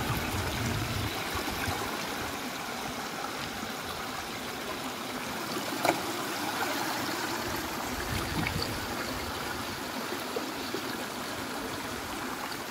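Flowing water running steadily, with a single sharp click about six seconds in.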